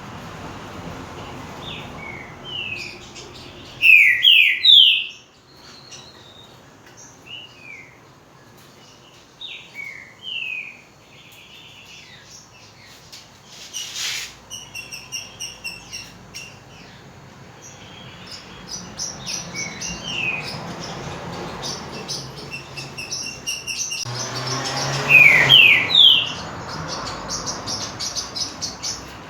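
Green-winged saltator (trinca-ferro) singing in short phrases of clear whistled notes. The two loudest phrases come about four seconds in and again near the end, with softer notes between.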